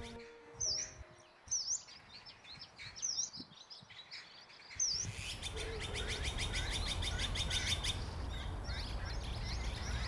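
Small birds chirping: a short, sharp chirp that drops and rises again, repeated about once a second. From about five seconds in, a busier chorus comes in, with a fast rattling call and more chirps over a steady outdoor background.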